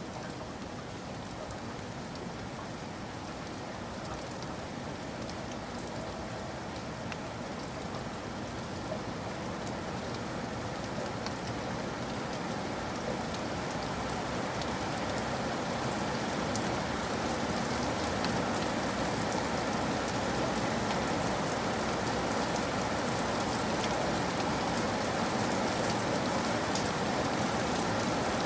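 Steady rain falling, a dense hiss with scattered drop ticks, slowly growing louder.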